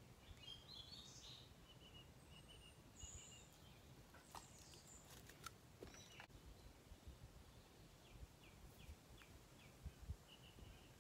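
Faint birdsong over a quiet outdoor background: short high chirps, a brief rising note, and a quick series of short notes near the end, with a few faint clicks.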